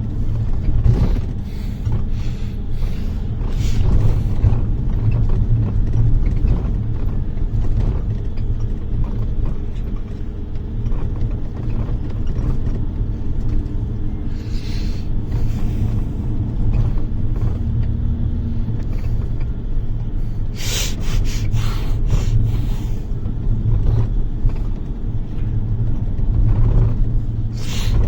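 Inside a moving bus: a steady low rumble of engine and road, with knocks and rattles now and then, in a cluster a little past the middle and again near the end.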